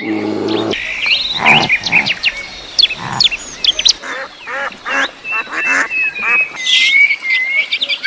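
Several farmyard birds calling over one another: many short, quick calls and chirps overlapping, with a lower, longer call at the very start.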